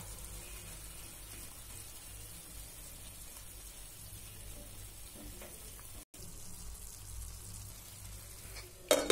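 Grated carrots and khoya kheer frying in a pan, a steady, quiet sizzle. The sound cuts out for an instant about six seconds in.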